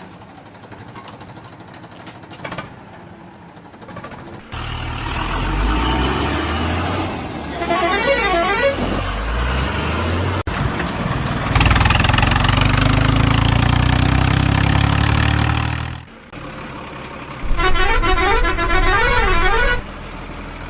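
A heavy vehicle engine runs loudly from about four seconds in until shortly before the end, with its pitch rising once. A warbling horn sounds in the middle and again near the end.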